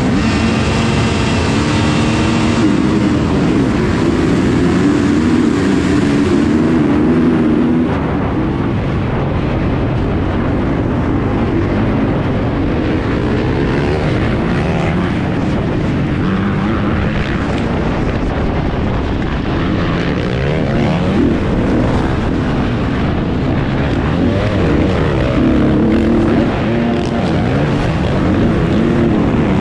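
Kawasaki KX450 four-stroke single-cylinder motocross engine running hard at racing speed. Its pitch rises and falls continually as the throttle is worked.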